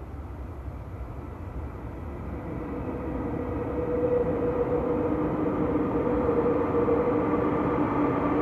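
Tokyo Metro Hibiya Line subway train approaching through the tunnel into an underground station. Its rumble grows steadily louder, and a steady hum of several tones comes in about three seconds in.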